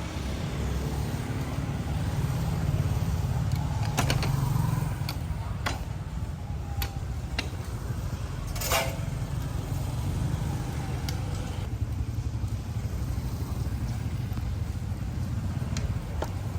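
Low, steady rumble of motor traffic on the street, with a few sharp knocks or clinks, the loudest about nine seconds in.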